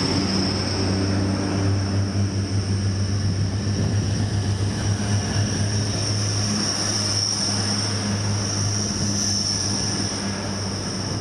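A diesel passenger train running steadily at a station platform: a low engine drone under a steady high-pitched whine.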